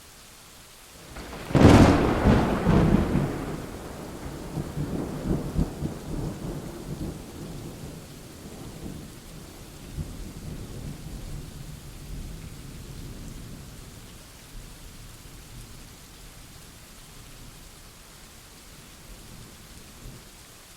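Thunderclap during steady rain: a sharp crack about a second and a half in, then a long low rumble that slowly fades away over the next fifteen seconds, leaving the hiss of the rain.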